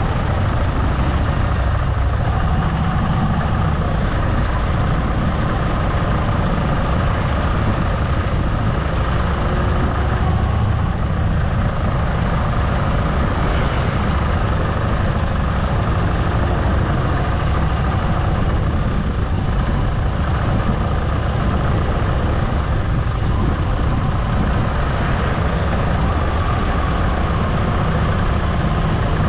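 Motorcycle engine running steadily under way, with constant road and wind noise.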